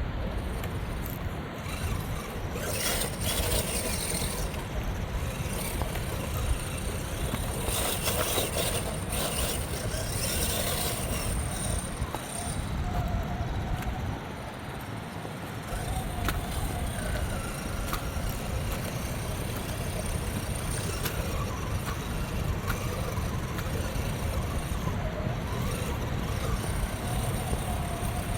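Redcat Gen 7 RC rock crawler driving over a trail: a faint whine from the electric motor rises and falls with the throttle, over a steady low rumble. Twice, about three seconds in and again around eight to eleven seconds, there are louder stretches of gritty noise as the tyres scrabble over dirt and rock.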